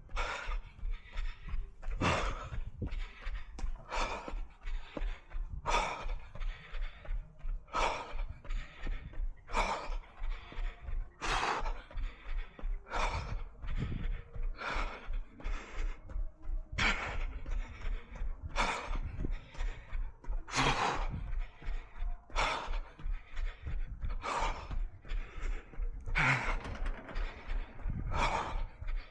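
A runner breathing hard in a steady rhythm mid-run, with a loud breath every one to two seconds and lighter ones between. Even footfalls thud underneath.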